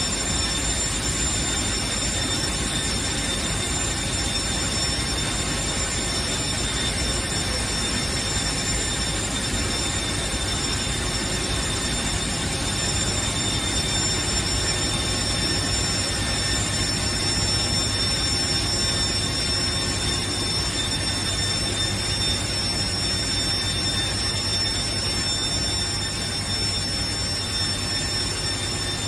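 Steady machine noise: an even rushing hum with several constant high-pitched whining tones over it, unchanging throughout.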